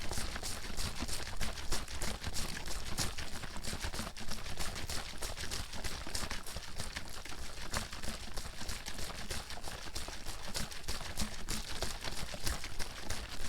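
Water sloshing inside a bottle that is shaken hard without stopping, splashing back and forth several times a second.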